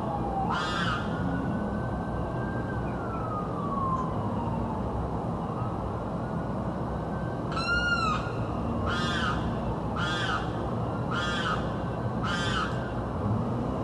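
A bird screaming with loud, harsh repeated calls: one about a second in, then a series of five about a second apart in the second half.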